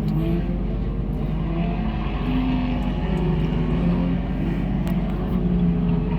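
Several sport compact race cars running flat out around the track, their engine notes overlapping and rising and falling in pitch as they go by.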